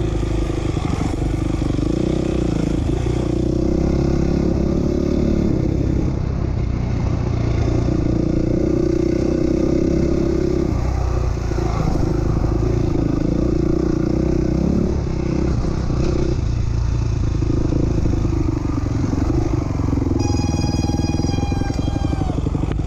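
450R motocross bike's single-cylinder four-stroke engine, heard from on board, revving up and down as it is ridden around the track. Near the end there is a squeal of about two seconds that falls slightly in pitch, like the front brake squeak the rider mentions.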